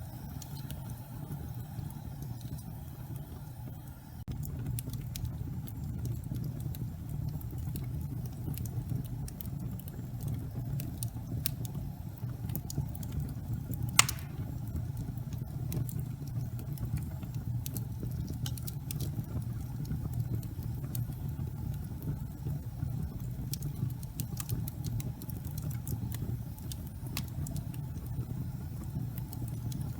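Fireplace fire burning: a steady low rumble of flame with scattered small crackles and pops, and one louder pop about halfway through.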